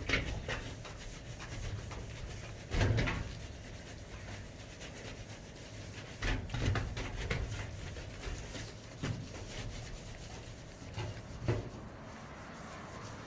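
A brush scrubbing a metal garage door: uneven rubbing strokes, with louder scrapes about three seconds in and again around six to seven seconds in.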